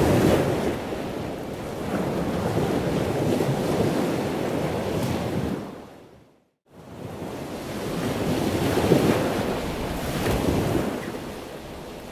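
Rushing, surf-like water noise that swells and eases, with a brief drop to silence about six seconds in.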